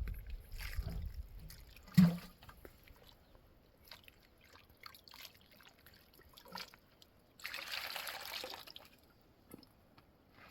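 Water trickling and dripping, with a sharp knock about two seconds in and a brief rush of water a little before the end.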